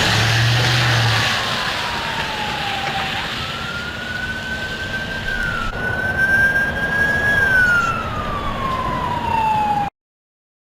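Siren wailing, its pitch sweeping slowly up and down over a rushing background noise, then cutting off abruptly near the end.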